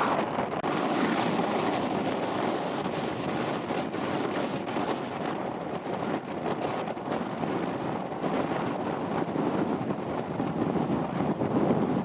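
Strong wind buffeting the microphone: a continuous rushing noise that rises and falls unevenly with the gusts.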